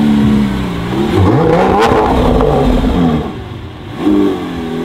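A supercar engine revving: a held note that drops, then a rev sweeping up and falling back over about two seconds, followed by a short blip of the throttle near the end.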